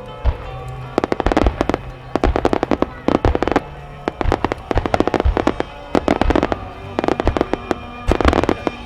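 Starmine fireworks display: rapid volleys of sharp bursting and crackling reports, coming in dense clusters a second or so apart.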